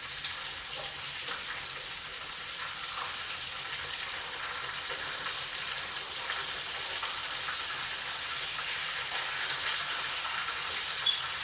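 Food frying in hot oil in a pan: a steady sizzle with small scattered pops and crackles.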